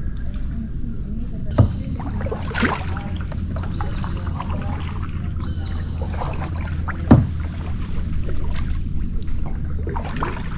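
Kayaks being paddled on a river: paddle strokes and water sloshing against the hulls, with two sharp knocks about one and a half and seven seconds in.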